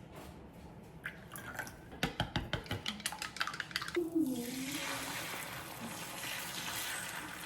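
Dishes and utensils clinking in a quick run of clicks, then a kitchen tap turned on and running water into the sink with a steady hiss.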